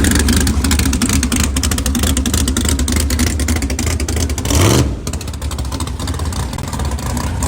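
Drag-racing street car's engine running loud with a rough, crackling exhaust, revving up sharply once about four and a half seconds in before the level drops.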